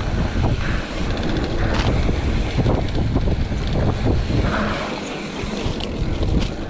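Wind buffeting the microphone with a steady low rumble while a mountain bike descends a rough trail, its frame and parts rattling with irregular knocks over bumps.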